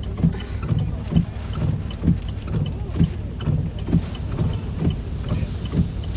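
Car windshield wipers on high, beating back and forth with a regular thump about twice a second, over steady wind and rain on the car.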